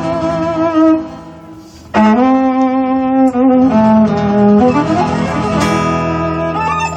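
Live gypsy-style instrumental music: a violin plays long sustained notes with vibrato over a low held accompaniment. About a second in the sound fades briefly, and the violin comes back in strongly a second later.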